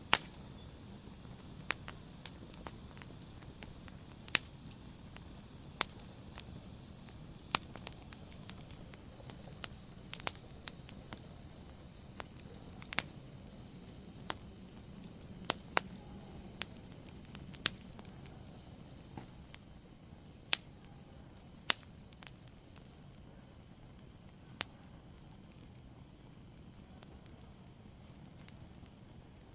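Wood fire crackling in a fireplace: sharp, irregular pops and snaps over a soft, low rumble of the flames. The pops come every second or two at first and grow sparse in the last few seconds.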